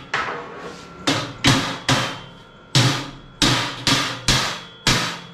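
A hammer striking steel, about nine irregularly spaced blows, each with a short metallic ring as it dies away. The blows are driving a tight-fitting steel plate into a square angle-iron frame.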